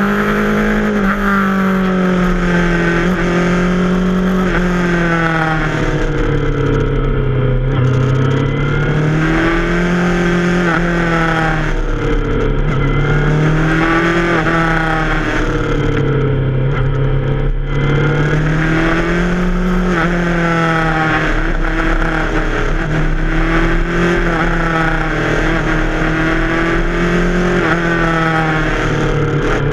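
Yamaha FZ6R's 600 cc inline-four motorcycle engine under way, its pitch rising and falling every few seconds as the throttle is rolled on and off through a run of bends.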